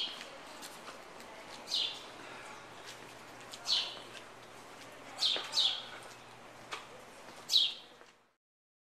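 A bird chirping repeatedly: short, high, falling notes every second or two, two of them in quick succession midway, until the sound cuts off suddenly about eight seconds in.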